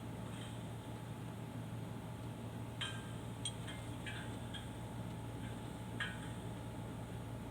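A few light clicks or taps, about six, spread over a few seconds around the middle, over a steady low hum and hiss.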